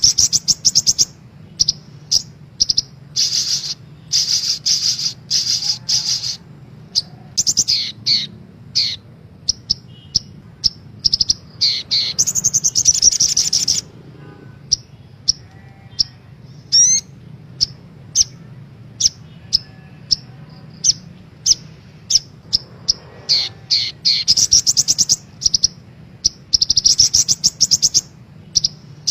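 Crimson sunbird (sogok ontong) song: very high, rapid twittering trills and sharp chirps in short bursts, one long dense trill near the middle, over a steady low hum.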